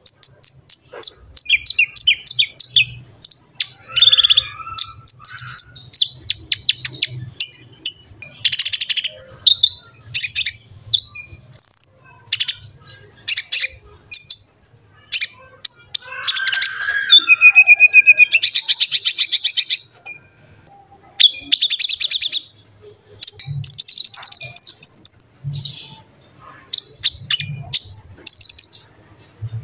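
Kolibri ninja sunbird (konin) in full song: a rapid, varied run of high chirps, short whistles and fast trills, with a longer rattling trill a little past halfway.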